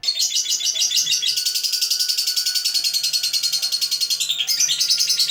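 Lovebird giving a long ngekek: a fast, high-pitched chattering trill of about a dozen notes a second, kept up without a pause.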